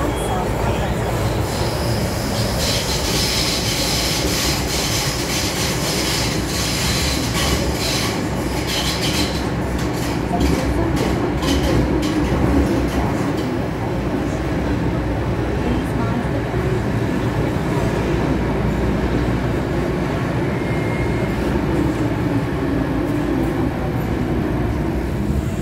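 MTR Island Line M-Train running at speed: a steady rumble of wheels and motors. High-pitched wheel squeal runs for several seconds near the start, and a quick run of wheel clicks over rail joints follows about ten seconds in.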